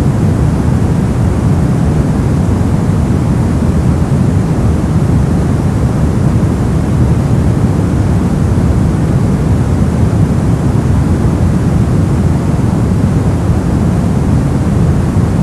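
Synthetic brown noise: a steady, deep rumbling hiss with most of its energy in the bass, unchanging throughout.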